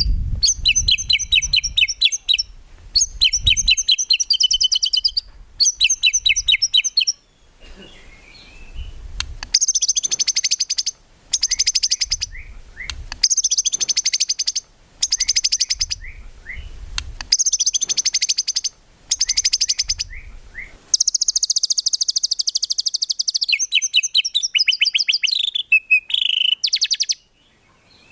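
White-rumped shama (murai batu) singing in rapid-fire bursts of quickly repeated high notes, each burst lasting one to two seconds with short pauses between, and one longer burst near the end.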